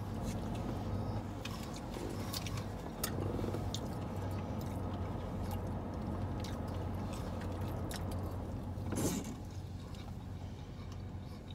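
People chewing and biting into fries, with small clicks and crackles from a plastic takeout tray being handled, over the steady low hum of the car. There is one brief louder sound about nine seconds in.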